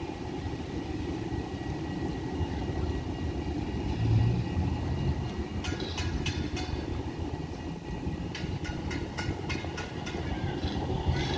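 A tram running along its track with a steady low rumble and a faint whine. From about halfway in come two runs of sharp, evenly spaced clacks as its wheels cross rail joints or points.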